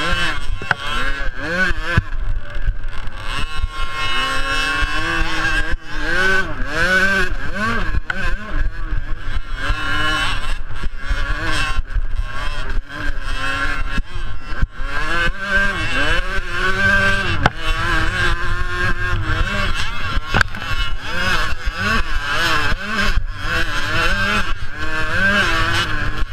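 Small two-stroke youth motocross bikes racing, their engines revving up and falling back over and over as the riders work the throttle around the track.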